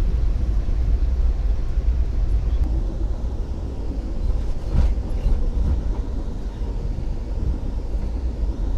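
Passenger train running, heard from inside the coach: a steady low rumble of the wheels on the track, with a single sharp knock about five seconds in.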